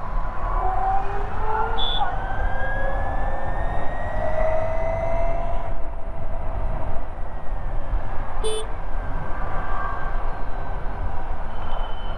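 Ather 450X electric scooter's motor whining, its pitch rising as it accelerates, over steady wind and road rumble. A brief high beep sounds about two seconds in, and a short horn toot about eight and a half seconds in.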